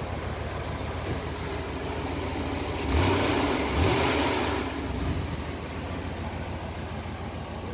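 1999 Chevy Tahoe V8 engine running at idle, then revved twice in quick succession about three seconds in before settling back to idle; it has just been brought back from not staying running.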